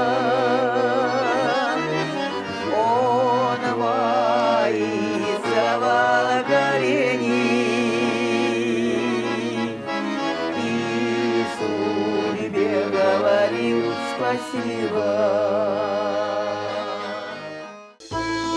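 Accordion music: the song's closing instrumental passage, with held wavering notes over a steady bass. It cuts off suddenly near the end and a different accordion tune begins.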